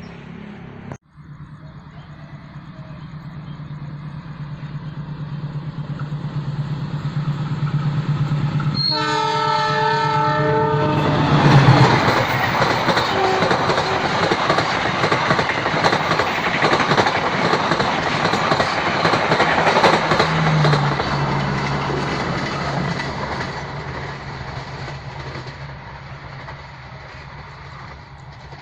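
A diesel-hauled passenger train approaching, its engine hum building, then sounding its horn for about two seconds. It passes close by with loud wheel and carriage rattle, then fades away.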